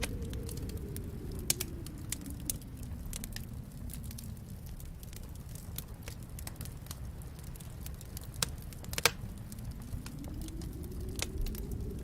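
Wood fire crackling, with irregular sharp pops, the loudest about one and a half seconds and nine seconds in. Under it a low wind rumble from the snowstorm eases through the middle and swells again near the end.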